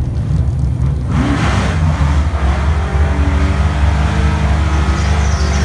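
Car engine running with a steady low rumble, joined about a second in by a broad rush of noise that holds to the end.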